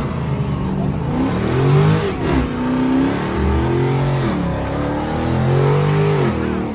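A car engine being revved hard over and over, its pitch climbing and falling back about three times.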